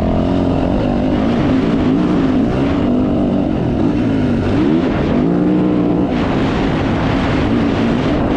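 Dirt bike engine running hard under load, its pitch rising and falling repeatedly as the rider works the throttle through the gears.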